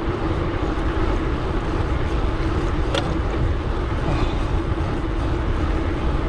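Wind rushing over a bike-mounted action camera's microphone while riding, a steady low rumble with a constant hum under it; a single sharp click about three seconds in.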